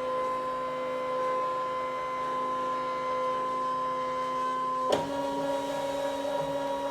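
Brother ScanNCut electronic cutting machine scanning the paper on its mat: a steady motor whine. About five seconds in there is a click and the tone changes slightly.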